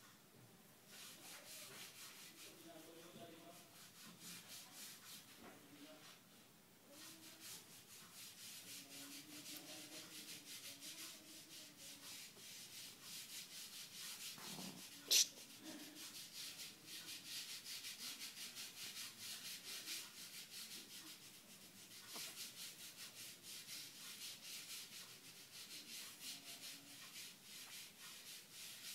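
A hand rubbing a pug puppy's fur: faint, fast, repeated brushing strokes, with one sharp click about halfway through.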